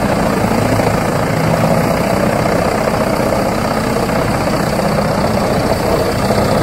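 Wood chipper running steadily: a heavy engine's even drone under a dense, unbroken noise, with no distinct impacts.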